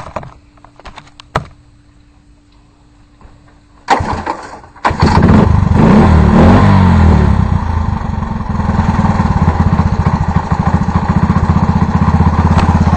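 Cold start of a Honda ATC 90 three-wheeler's small single-cylinder four-stroke engine. After a few clicks and a thump, it sputters about four seconds in, catches a second later, revs briefly, and settles into a steady run.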